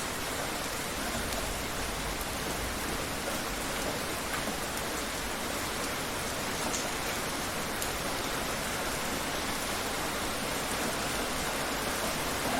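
Steady rain falling and pattering on surfaces, an even hiss with a few faint individual drop ticks.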